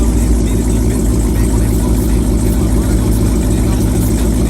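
Car engine running steadily at low revs, a loud even hum with no revving or change in pitch.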